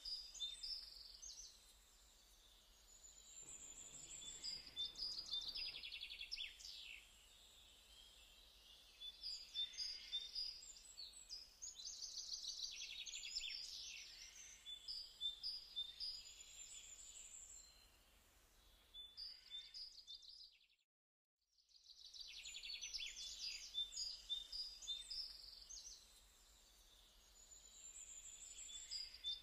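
Faint birdsong: bursts of rapid chirps and trills that come back every few seconds in a repeating pattern, cutting out completely for about a second around two-thirds of the way through.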